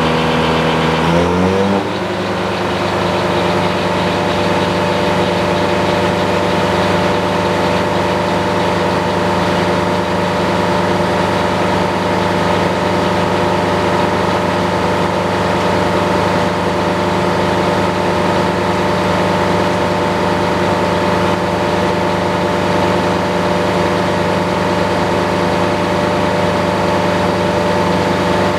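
Sawmill's engine running. It speeds up about a second and a half in, then holds a steady pitch.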